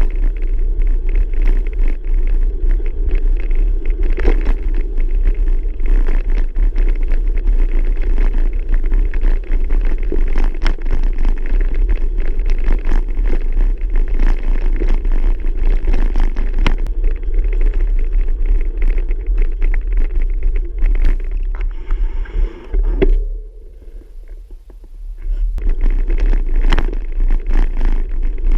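Riding noise from a bicycle: wind rumbling on the microphone, with many small rattles and knocks from the bike over the trail. The noise drops away briefly about 23 seconds in, then comes back.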